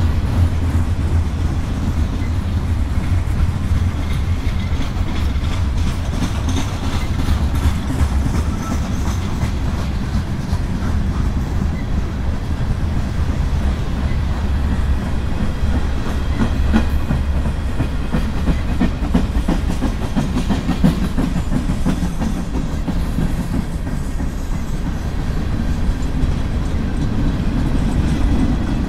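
Freight cars of a long mixed manifest train rolling steadily past: covered hoppers, tank cars and steel coil cars. Steel wheels give a continuous heavy rumble on the rails, with a steady run of clicks from wheels crossing rail joints.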